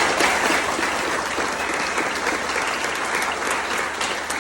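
Crowd applauding, many hands clapping at once; the clapping starts loud and slowly tapers off.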